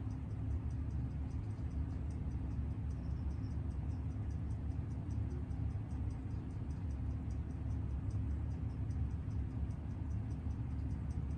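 Seiko 6138 automatic chronograph movement ticking quickly and evenly, running in just after a service with its fresh lubrication still spreading. Under it is a steady low hum.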